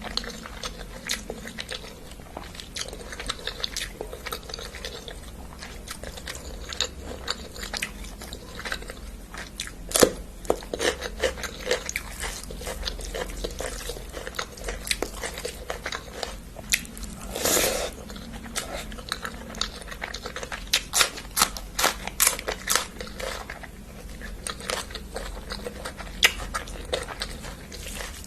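Close-miked chewing and biting of a curry-and-rice meal: a steady stream of wet mouth clicks and crunches at an irregular pace, with a few louder bites.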